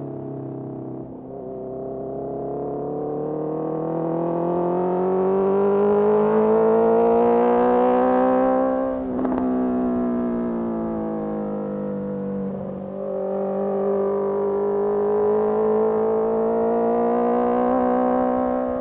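Honda CBR650R's inline-four engine through a Mivv MK3 carbon exhaust, pulling under throttle. The engine note climbs for about nine seconds, breaks off briefly, and sinks. It breaks again near thirteen seconds and then climbs once more.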